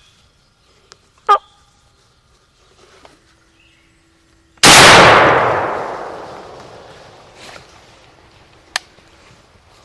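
A single shotgun blast a little under halfway in, sudden and very loud, echoing away over the next two to three seconds: a hunter's shot at a turkey. About a second in there is a short, sharp sound.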